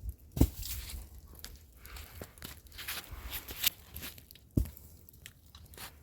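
Irregular handling noises: rustling and crunching with a few sharp knocks, the loudest about half a second in and another a little after four and a half seconds.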